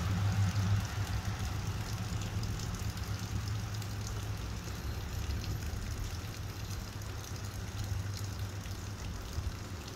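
Steady rain falling, with a low rumble underneath that fades slowly over the seconds.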